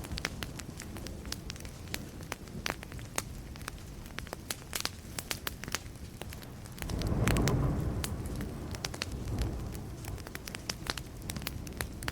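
Burning wood fire crackling, with many sharp pops over a steady hiss. About seven seconds in, a low rumble of distant thunder swells and fades over a second or two.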